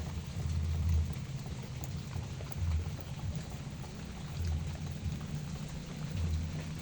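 Steady rain falling on garden plants, an even hiss of drops, with a low rumble underneath that swells and fades every second or two.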